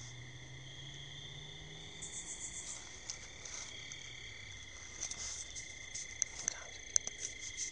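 Night chorus of crickets and other insects, a steady high trilling at several pitches. A faint low hum rises slightly and fades out about halfway through, and scattered light clicks and crackles come in the second half.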